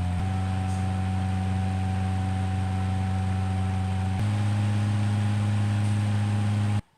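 Mondial Super Turbo VTX electric fan running with a steady motor and blade hum. About four seconds in there is a click, and the hum steps up in pitch and gets a little louder, as when the fan is switched to a higher speed. The sound cuts off abruptly near the end.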